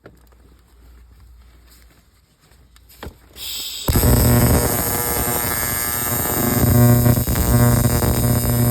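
Electric arc welder striking an arc about four seconds in, then welding with a loud, steady crackle over a strong electrical hum.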